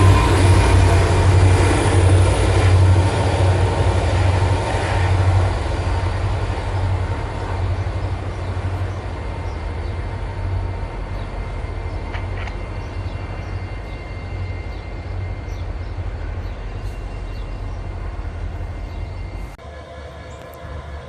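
Freight train rolling past, with the rumble of its diesel engines and cars fading steadily as it moves away. Near the end it cuts abruptly to a quieter, steady rumble.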